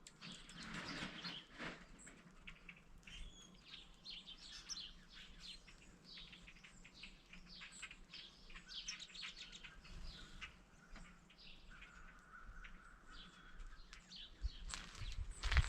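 Small wild birds chirping and calling, many short, high chirps coming one after another, with one steady held note for about two seconds late on. A louder thump comes near the end.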